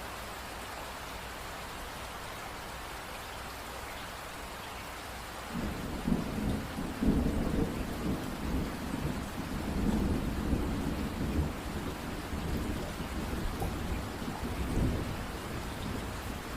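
Steady rain hiss, then about five seconds in a low rumble of thunder breaks in and rolls on through the rest, swelling and fading under the rain.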